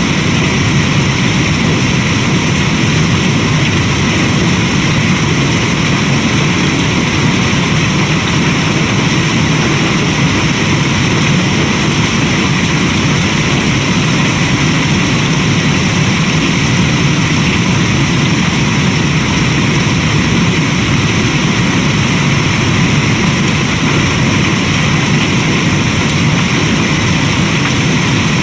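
Steady, even rain noise, a constant hiss and patter with no let-up.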